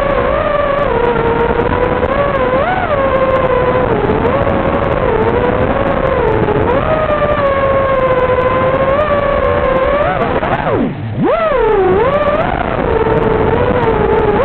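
FPV racing quadcopter's brushless motors and propellers whining, the pitch rising and falling with the throttle. About eleven seconds in, the throttle is chopped: the whine drops sharply, then climbs straight back up.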